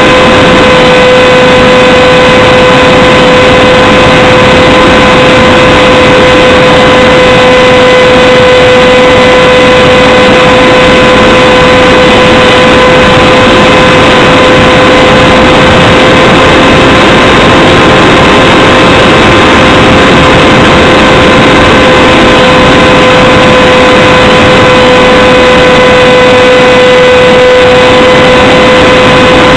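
Radjet 800 RC plane's electric motor and propeller running at a steady high pitch, loud and close to the onboard camera, over a heavy rush of wind noise.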